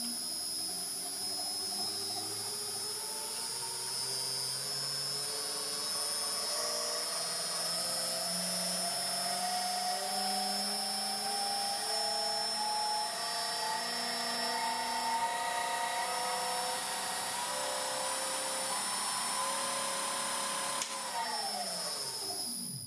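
Electric motor of a home-built mini lathe running, its pitch climbing slowly and steadily as it speeds up, with a steady high whine alongside. Near the end it is switched off and winds down quickly to a stop.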